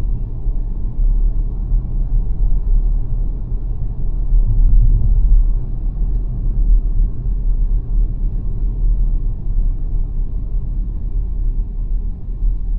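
XPENG G9 Performance electric SUV driving, a steady low road and tyre rumble with no engine note.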